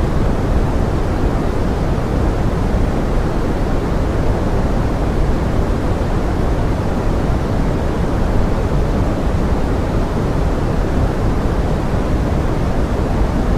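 Steady pink noise blended with forest rain: an even, unbroken hiss weighted toward the low end, with no separate drops or events standing out.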